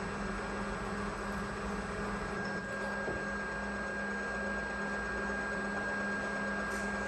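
Homemade belt grinder running steadily under its electric motor, with a low hum and a thin high whine held at one pitch over a rushing hiss.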